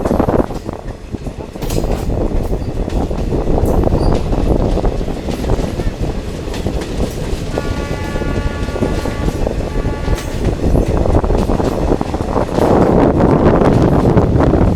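Indian Railways diesel multiple unit running along the track with a steady noisy rumble. A horn sounds for about two and a half seconds midway.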